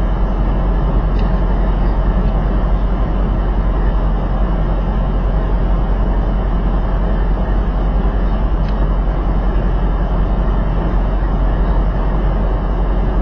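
Steady road and engine rumble of a semi truck driving on the interstate, picked up by a dash cam inside the cab.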